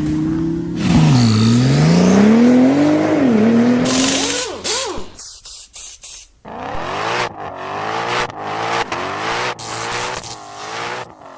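A car engine revving, its pitch dropping and then climbing over the first few seconds with a loud hiss of tyre noise. After that comes a run of quicker rises and falls in pitch.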